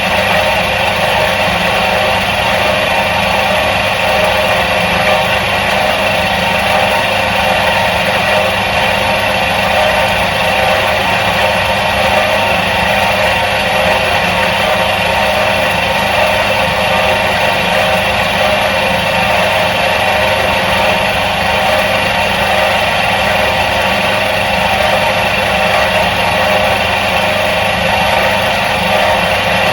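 Electric motor of a 1977 Soviet washing machine running at a constant speed: a steady hum with several held tones over a noisy whir, unchanging throughout.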